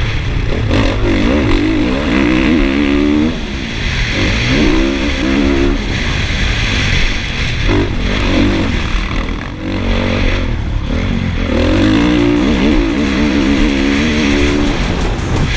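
Motocross bike engine racing around a track, its pitch climbing and dropping again and again as the throttle is worked and gears are changed.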